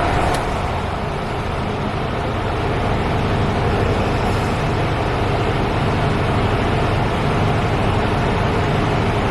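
Mercedes-Benz Actros 2345 truck's straight-six diesel engine running steadily at idle just after start-up.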